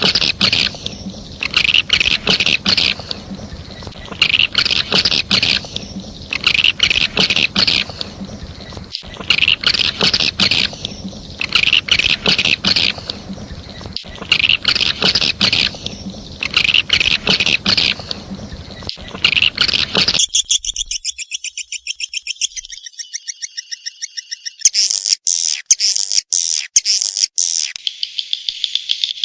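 Recorded edible-nest swiftlet calls played as a lure: twittering chirp trills repeating about every two seconds, then, about 20 seconds in, a faster buzzing, rattling trill with rapid ticks near the end.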